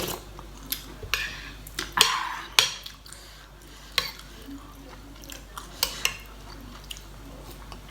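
A utensil clinking and scraping against dishware while food is mixed and served: irregular sharp clicks, with a longer scrape about two seconds in.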